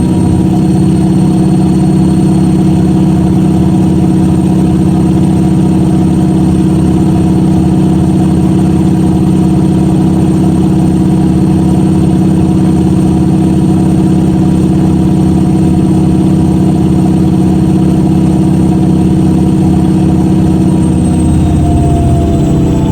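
Washing machine spinning at speed: a loud, steady motor hum and whine from the fast-turning drum. Near the end the pitch starts to fall as the drum slows.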